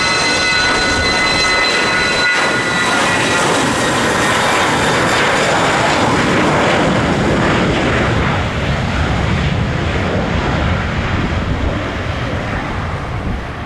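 Cessna 680 Citation Sovereign's two turbofan engines at take-off power. A high whine fades out in the first few seconds, leaving a broad jet roar that grows fainter from about eight seconds in.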